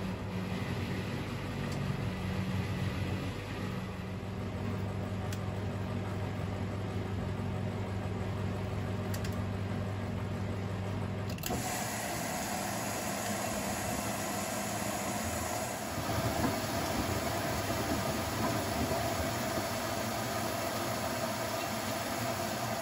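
Zanussi-built Privileg 3001 S washing machine running on its three-speed gear motor with a steady low hum. About eleven seconds in, the hum changes to a brighter, higher whine as the machine shifts to another drum speed.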